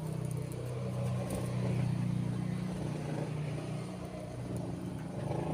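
A motor vehicle engine running nearby as a steady low hum, swelling about two seconds in and easing off slightly afterwards.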